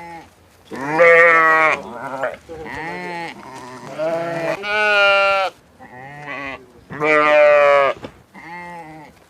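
Livestock bleating: a run of about seven loud bleats, each lasting up to a second, at differing pitches.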